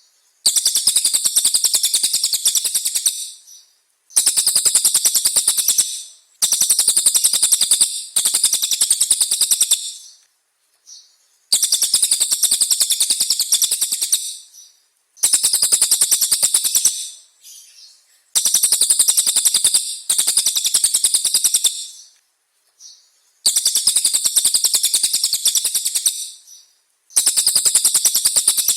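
A songbird singing about ten bursts of rapid, high-pitched rattling trill, each one to three seconds long, with short pauses between them.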